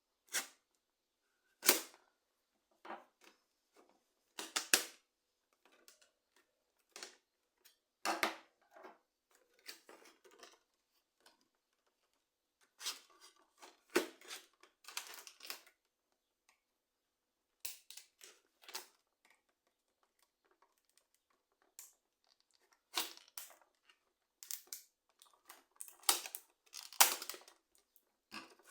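Packaging being handled and opened by hand: scattered clicks, knocks and rustling, with a few tearing sounds and silent gaps between them.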